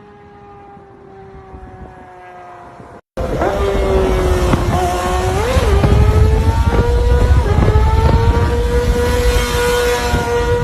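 Yamaha R6 inline-four through an aftermarket exhaust. First a quieter engine note sliding slowly down in pitch; then, after an abrupt cut about three seconds in, a much louder run held at high, fairly steady revs, with a quick blip about two seconds later.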